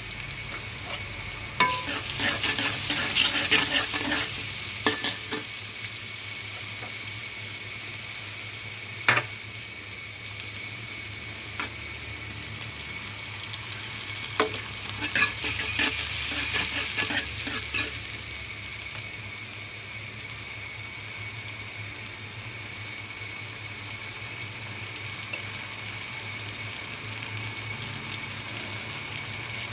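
Food frying in a pan, with a steady sizzle throughout. Twice, near the start and again about halfway through, a utensil stirs the food and clacks and scrapes against the pan for a few seconds.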